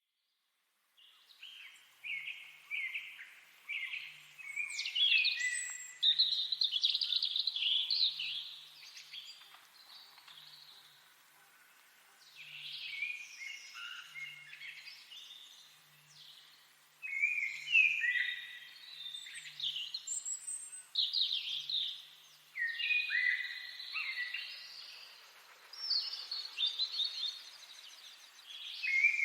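Several songbirds singing together, a busy chorus of varied chirps, trills and whistled phrases that overlap, with a short lull about a third of the way through.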